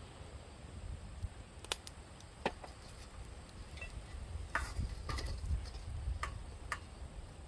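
About six sharp clicks and taps, scattered and uneven, while champon ingredients are stir-fried in a pan over a campfire, over a steady low rumble.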